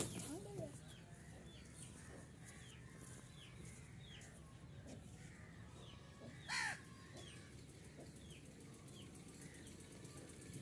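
Birds calling: short chirps repeating about every half second, and one loud call falling in pitch about six and a half seconds in. At the very start a brief flurry of wing flaps as two gamecocks leap at each other.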